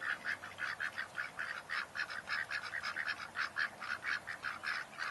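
A rapid, regular series of short animal calls, about four to five a second.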